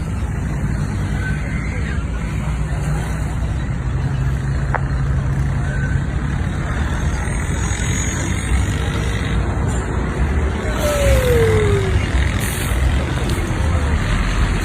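Steady rumble of road traffic, with a short falling tone about eleven seconds in.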